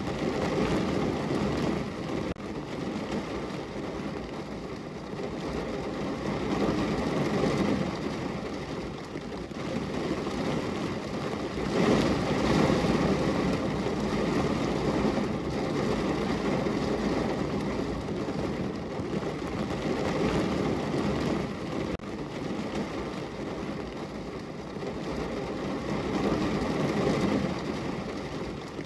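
Steady rain falling on a window, an even wash of noise that swells and eases in slow waves, growing louder about twelve seconds in.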